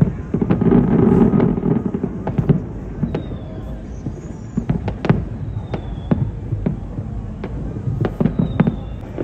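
Fireworks going off: a rapid, irregular string of sharp bangs and pops over a steady low rumble.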